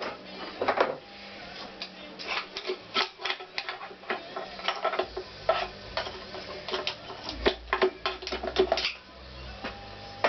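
Irregular metallic clicks, taps and clinks of hand tools and parts being handled on a Honda CX500 engine during disassembly.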